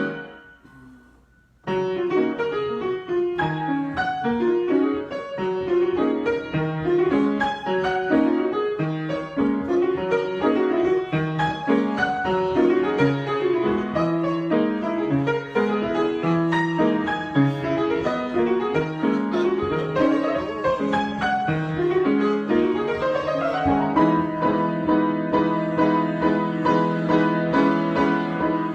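Piano improvisation: a phrase dies away into a brief pause, then busy playing resumes about two seconds in. Near the end a rising run leads into repeated chords.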